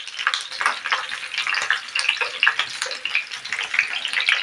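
Besan-stuffed green chillies frying in a little hot oil in a pan: a steady sizzle with many small crackling pops.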